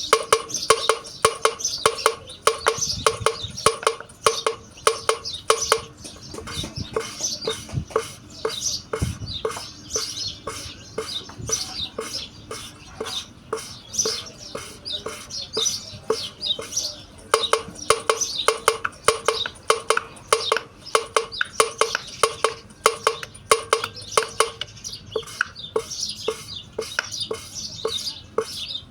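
Valve being hand-lapped into its seat on a Volvo FMX 400 diesel cylinder head, rhythmic gritty scraping as it is twisted back and forth against the oiled emery paste, about two to three strokes a second.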